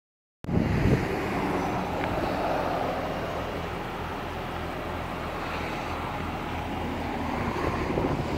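Steady low rumble of a running vehicle engine, mixed with wind gusting across the microphone.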